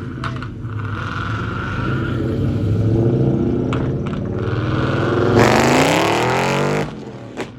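Car engine running, its note climbing slowly, then revved hard about five seconds in. The pitch rises for about a second and a half before it cuts off suddenly.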